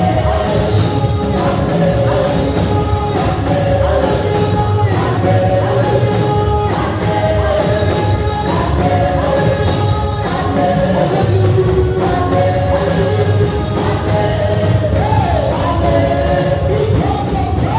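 Gospel praise music: voices singing held, wavering notes over a band with a dense, steady low beat.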